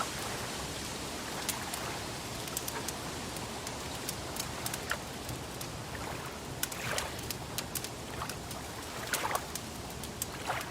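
Wood fire crackling: a steady hiss with many scattered sharp pops and snaps, and a few softer swishing sounds like water lapping.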